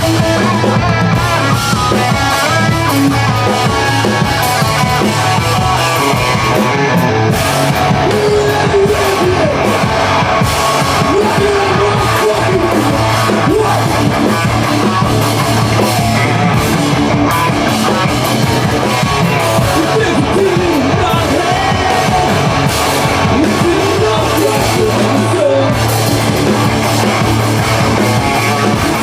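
Rock band playing live: guitar and drum kit, loud and steady.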